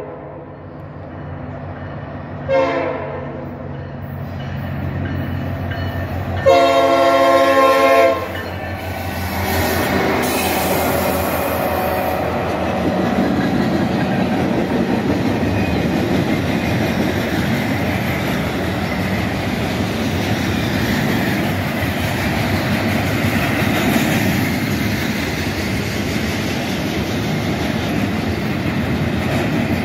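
Norfolk Southern locomotive horn giving a short blast about two and a half seconds in and a longer, louder one about six and a half seconds in. Then the rail train passes close by: a steady rumble of wheels on the track as flatcars loaded with long welded rail roll past.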